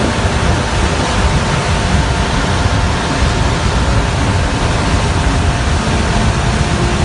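Loud, steady rushing noise with a fluttering low rumble underneath.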